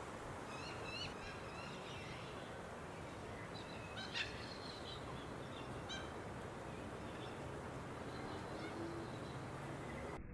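Birds chirping outdoors: a few short warbling chirps in the first second or so, a louder call about four seconds in, and fainter chirps after, over steady background noise.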